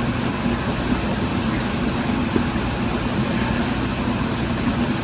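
A steady machine hum: a low drone over an even wash of noise that holds without change.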